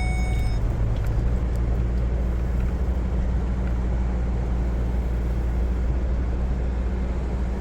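Ford F-150 pickup truck driving along a sand beach, heard from inside the cab: a steady low rumble of engine and tyre noise. A high steady tone cuts off just after the start.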